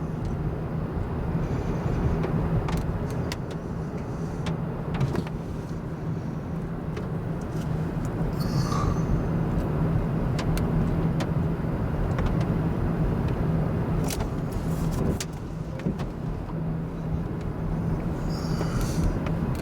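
Car running, heard from inside the cabin: a steady low engine and road rumble with a few sharp clicks scattered through it.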